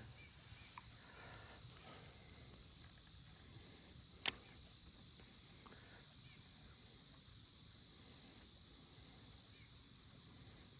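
Quiet outdoor ambience: a faint steady hiss with a single sharp click about four seconds in.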